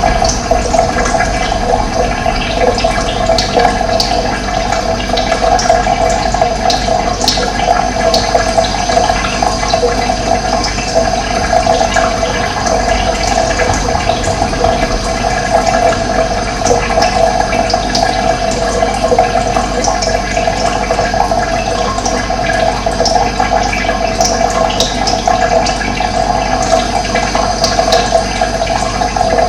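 Steady running water, with short bird chirps scattered over it.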